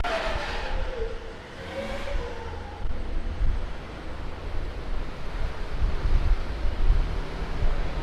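A car driving away, its engine note fading and shifting in pitch over the first two seconds, followed by wind buffeting the microphone as a low, uneven rumble.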